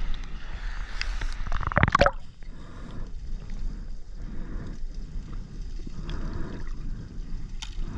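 Water sloshing and gurgling around a diver's camera as he moves in the water, with a loud gurgling splash about two seconds in and a few small drips and clicks.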